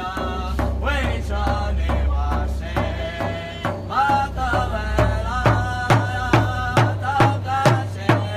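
Chant-like singing over a drum beaten at a steady beat, about two strikes a second. The drumbeats grow stronger about halfway through.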